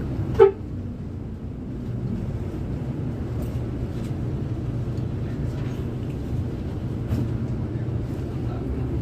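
Bus diesel engine idling with a steady low hum, and one sharp clack about half a second in.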